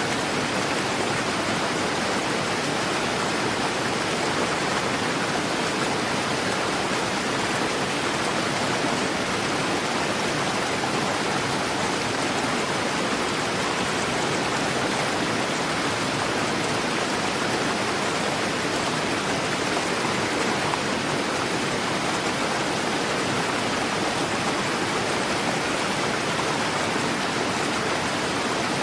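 Fast-flowing river rushing steadily, a dense, even water noise with no breaks.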